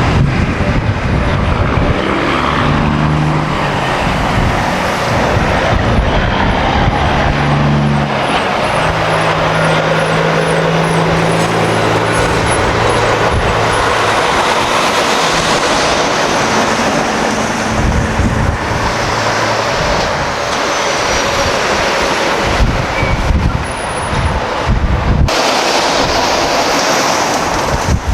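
Semi trucks driving past one after another, their diesel engines running under a steady wash of tyre and traffic noise.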